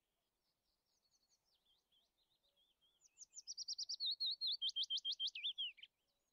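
A songbird singing: faint high twittering at first, then from about three seconds in a louder, quick run of repeated sweeping notes, about six a second, which stops shortly before the end.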